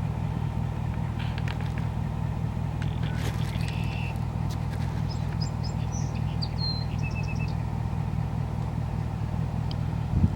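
A vehicle engine idling with a steady low rumble. Small songbirds chirp and whistle over it from about a second in until about three quarters of the way through.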